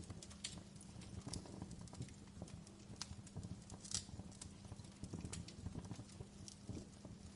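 Wood fire in a fireplace crackling: irregular sharp pops and snaps, a few louder ones about half a second, one and a half, three and four seconds in, over the low fluttering rumble of the flames.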